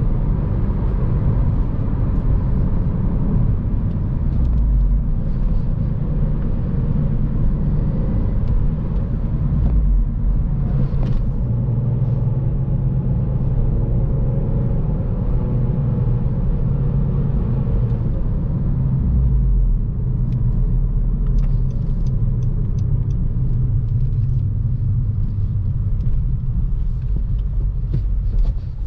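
2014 Honda Civic Si's 2.4-litre four-cylinder engine and road noise while driving, a steady low rumble with a few faint clicks in the second half.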